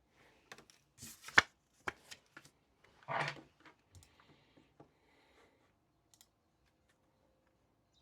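Handling sounds: a run of taps and knocks, the sharpest about a second and a half in, and a brief rustle about three seconds in, then a few light ticks.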